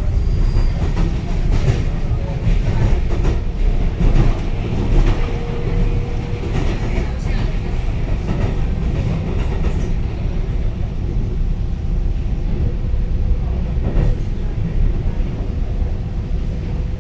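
Taiwan Railway EMU900 electric multiple unit running on the rails: a steady low rumble with scattered clicks from the wheels. A thin steady whine sounds through the middle stretch.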